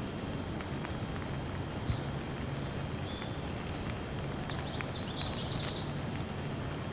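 Steady rain with scattered drips, and a bird chirping: a few thin notes at first, then a quick run of chirps near the end.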